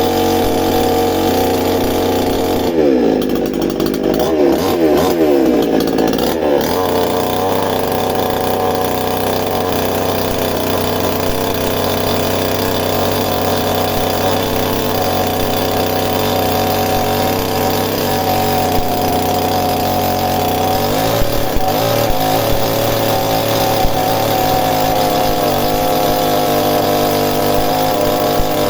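Chainsaw running steadily. Its engine pitch sags and climbs several times about three to six seconds in, and again a little past twenty seconds, as the saw is worked into a wooden stump.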